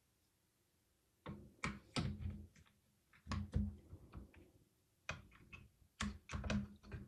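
Crucial Pro DDR5 memory stick being handled and pressed into a motherboard's DIMM slot: several bursts of small plastic clicks and knocks with dull thuds, the slot being a tight fit.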